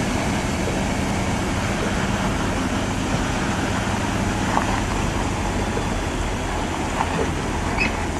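Road traffic noise with a heavy vehicle engine running steadily, and a few brief faint high squeaks scattered through it.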